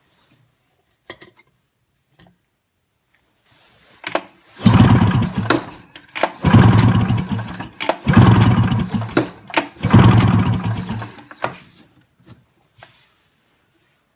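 2002 Polaris Classic 500 two-stroke twin being cranked over for a compression test, with a gauge in a spark plug hole and not firing. It comes in four bursts of about a second or so each, with short pauses between.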